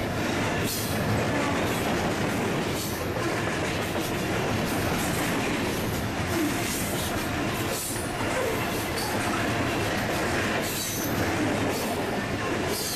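Covered grain hopper cars of a freight train rolling past at speed: a steady rumble and rattle of steel wheels on rail, with irregular clacks over rail joints and a few faint, brief wheel squeals.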